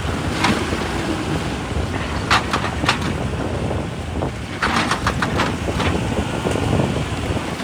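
Heavy earthmoving machinery running steadily, with sharp clatters every second or two.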